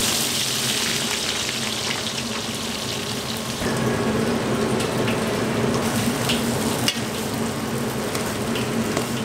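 Sliced onions sizzling as they fry in hot oil in a wok, stirred with a metal spatula that clicks now and then against the pan. The sizzle grows a little louder about three and a half seconds in.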